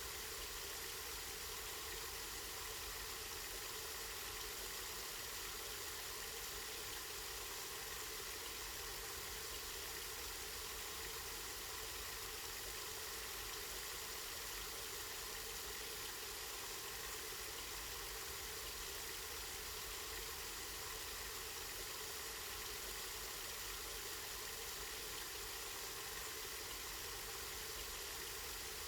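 Spring water running and splashing steadily, an even, unbroken rush.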